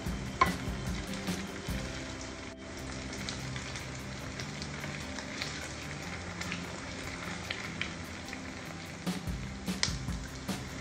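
Banana blossom fritters sizzling and crackling in hot oil in a frying pan over medium heat, with a wooden spatula turning them now and then.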